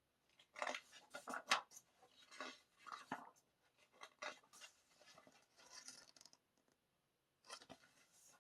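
Faint rustling and scraping of paper being handled, as glossy album photobook pages are turned and looked through, in short irregular bursts with a brief lull near the end.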